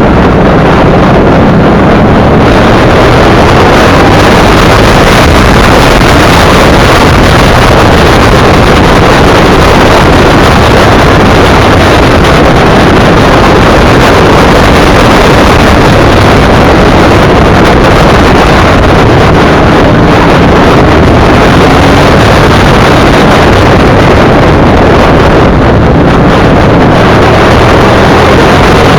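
V-twin motorcycle engine running at cruising speed under heavy wind noise on the microphone, loud and steady throughout.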